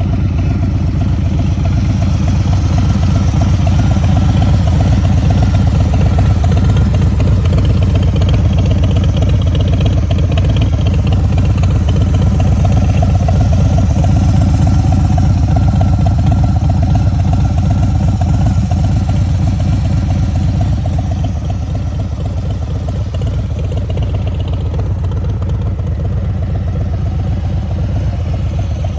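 Harley-Davidson Street Bob's Milwaukee-Eight 114 V-twin idling through a Bassani aftermarket exhaust, a steady deep pulsing note. It gets a little quieter about two-thirds of the way through.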